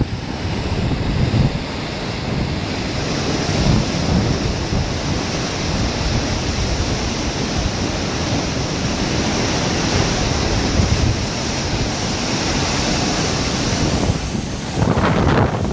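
Hurricane-force wind blowing in gusts, a dense steady rush with wind buffeting the microphone in uneven low surges.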